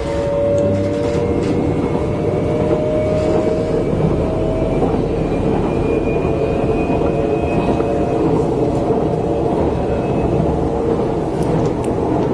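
Electric commuter train heard from inside the carriage while running at speed: a steady rumble and rattle of the train on the track, with a faint whine that slowly rises in pitch over the first few seconds.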